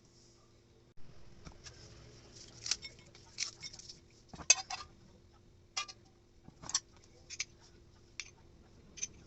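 Spoon and dishes clinking and tapping at irregular intervals, about a dozen light knocks, the loudest one about four and a half seconds in.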